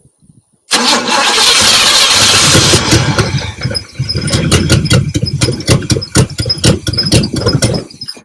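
1972 Buick Riviera's 455 V8 being cranked, catching and sputtering with uneven firing for a few seconds before it dies. The owner takes this for fuel starvation from a failed fuel pump.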